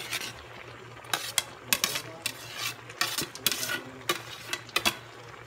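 A metal utensil scraping and clinking against a pan in about a dozen irregular strokes, as onion and garlic are stirred in with pieces of chicken.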